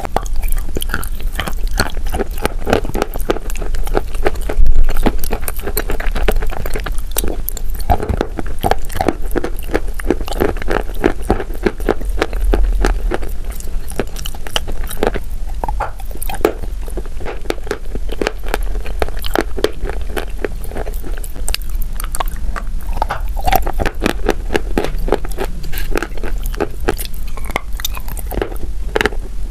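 A person biting and chewing wet chalk coated in a creamy brown paste, close to the microphone: a dense run of crisp, wet crunches, many a second. One crunch about five seconds in is louder than the rest.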